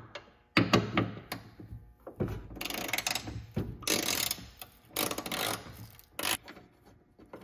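Hand ratchet clicking in quick runs while a bolt is backed out, with a few sharp knocks before it.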